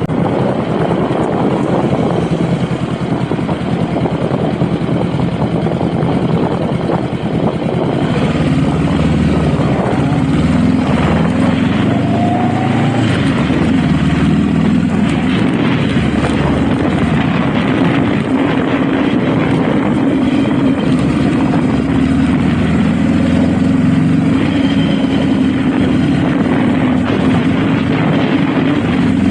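Honda Rebel motorcycle engine running under way, with wind rushing over the helmet-mounted microphone. About eight seconds in the engine note climbs and gets a little louder as the bike pulls, then holds steady.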